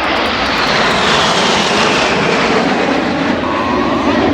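Formation of BAE Hawk jet trainers flying past, their turbofan engines making a loud, rushing roar. A whine in the roar falls slowly in pitch as the jets go by.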